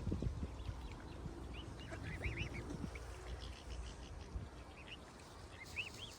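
Birds calling in short, arched chirps that come in small groups of two or three, over a low outdoor rumble.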